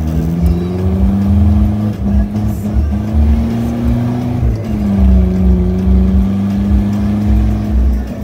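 Isuzu Mu 4x4's engine pulling along soft beach sand. Its note climbs slowly, drops sharply about four and a half seconds in, then holds steady, over a heavy low rumble.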